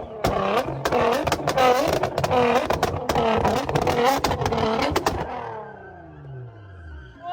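A car engine revving hard, its pitch rising and falling in quick repeated pulls about twice a second, with sharp crackling pops from the exhaust. About five seconds in the pops stop and the revs fall away.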